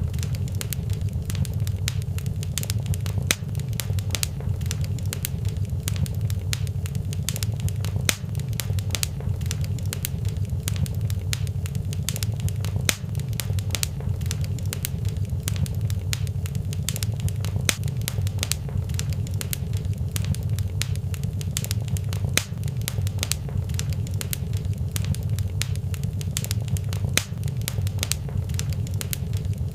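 Fireplace fire crackling steadily, with frequent sharp pops over a constant low rumble.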